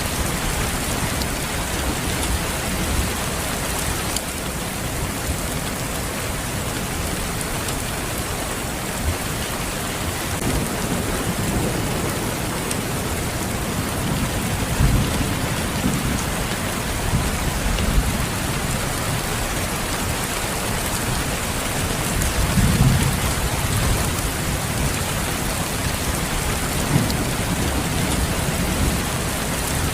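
Steady rain falling, with low rolls of thunder that swell up several times in the middle and latter part.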